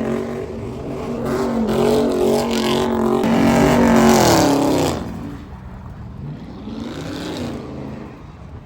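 Car engine held at high revs with a steady note, then the revs fall away about four to five seconds in as the throttle is released, leaving quieter engine and street noise.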